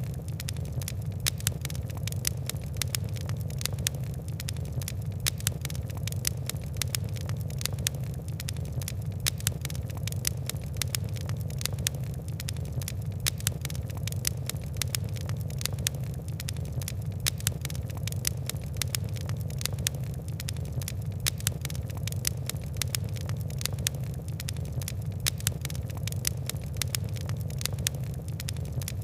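Fire crackling steadily, with many small irregular pops and ticks over a constant low rumble of burning.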